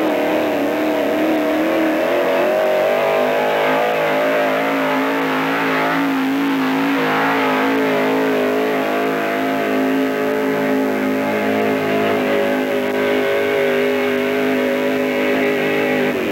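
Vintage pickup truck's gas engine held at high revs under load in a truck pull. The pitch wavers briefly at first, then stays steady and loud.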